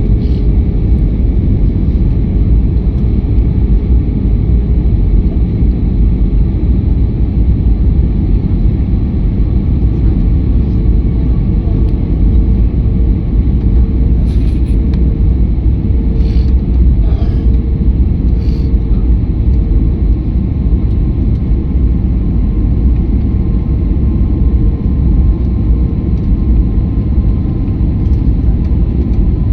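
Jet airliner's cabin noise on approach: a loud, steady low rumble of engines and airflow, with a faint pulsing hum joining about twelve seconds in.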